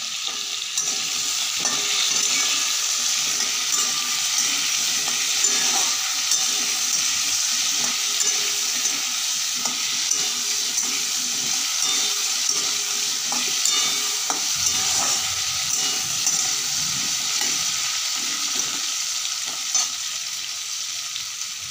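Cubed potatoes frying in hot oil in a kadai, a steady sizzle, with a spatula stirring them and scraping against the pan now and then.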